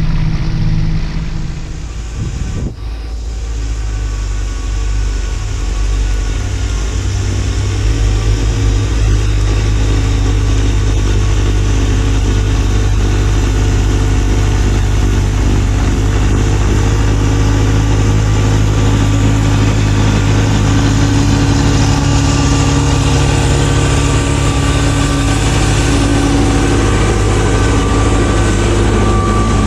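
Kubota B2601 compact tractor's three-cylinder diesel engine running steadily while driving its B2782B snowblower. The sound dips briefly a couple of seconds in, then rises and holds at a louder, steady level.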